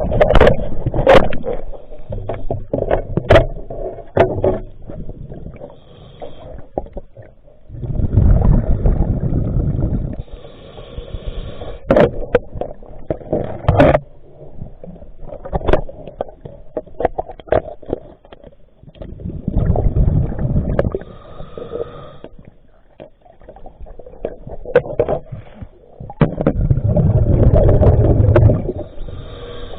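Scuba diver breathing through a regulator underwater: exhaled bubbles rush out in three long bursts, with a fainter hiss from the regulator in between. Sharp clicks and knocks of hands and gear against the boat's hull come and go throughout.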